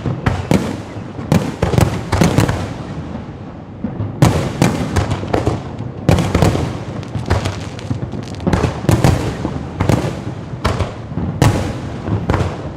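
Fireworks bursting in a continuous run of loud bangs, often several in quick succession, each trailing off in an echo.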